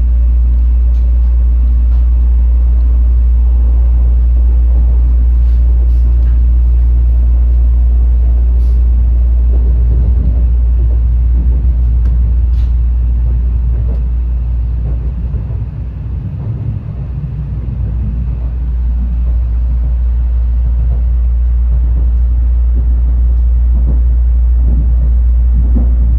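Low, steady running rumble of a Tokaido Shinkansen heard inside the passenger car, easing briefly about two-thirds of the way through, with a few faint clicks.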